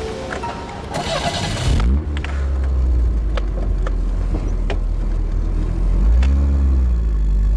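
A car engine starting: a short burst of noise, then the engine running with a steady low hum and scattered clicks. Near the end the pitch rises and falls briefly.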